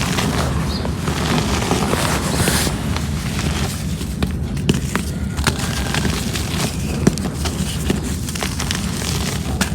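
Cement chunks crumbling: a gritty crackle with scattered sharp clicks over a steady low rumble.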